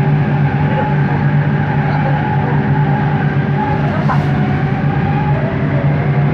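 Interior running noise of a Bombardier Innovia ART 200 metro train under way. It is a steady low hum from the linear induction motors, with a higher steady tone and faint wavering whines above it.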